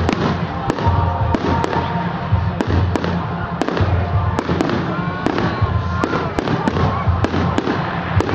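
Fireworks display: aerial shells bursting overhead in an irregular string of sharp bangs, roughly two a second, over a continuous rumble.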